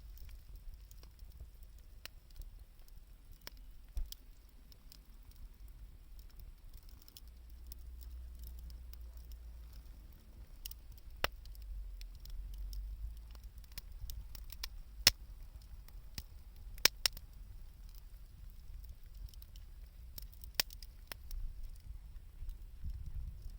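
Wood bonfire burning, with irregular sharp crackles and pops, sparse at first and more frequent in the second half, over a low steady rumble.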